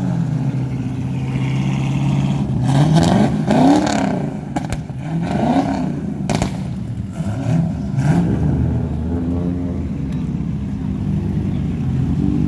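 Car engine idling steadily, then revved in several quick blips, the pitch rising and falling each time, before settling back to idle near the end.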